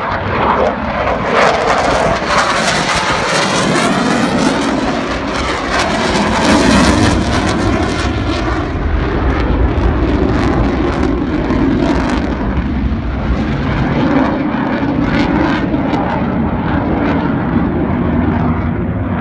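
Aircraft engine noise, loud and steady, with a shifting whine over the first several seconds.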